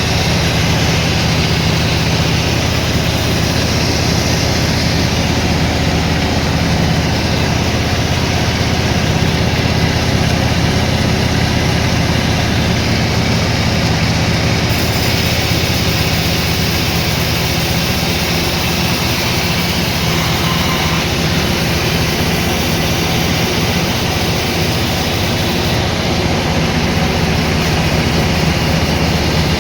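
Sawmill machinery running steadily, a low, even engine drone with a wash of mechanical noise over it.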